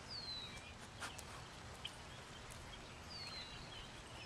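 A bird calling: a high whistled note sliding downward, twice, about three seconds apart, with a few faint clicks.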